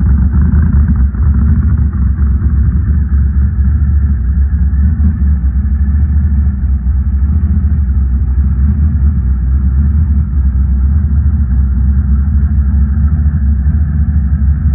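The 700-horsepower engine of a pro street 1963 Chevrolet Impala running steadily through a loud exhaust, a deep, even sound with no revving.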